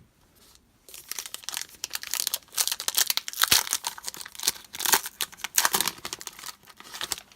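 Trading card pack wrapper being torn open and crinkled, a dense crackling rustle that starts about a second in and runs until shortly before the end.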